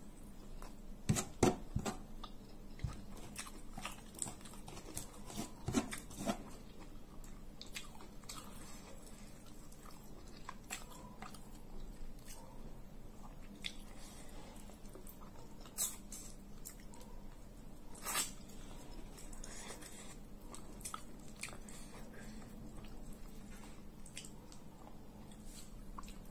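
Close-up chewing and mouth sounds of a person eating spicy tuna and steamed cassava rice (tiwul) by hand: irregular wet smacks and clicks, the loudest about a second in and around six seconds, with a few more later.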